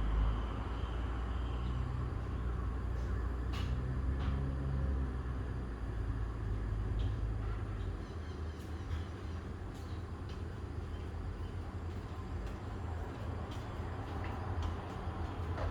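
Low engine rumble of a motor vehicle, strongest in the first few seconds and easing after, over steady outdoor background noise with a few faint clicks.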